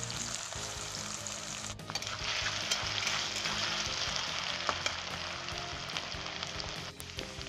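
Cubed potato and cauliflower sizzling as they fry in hot mustard oil in a kadai, the sizzle growing louder about two seconds in. A spatula stirs them, with a few light clicks against the pan.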